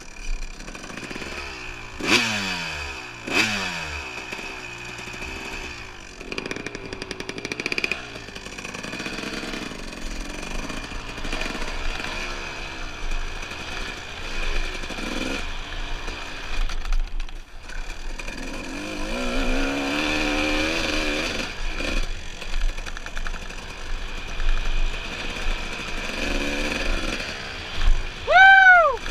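Dirt bike engine revving up and down over and over while riding, its pitch sweeping with the throttle and gear changes. Near the end there is a brief, loud high tone that rises and falls.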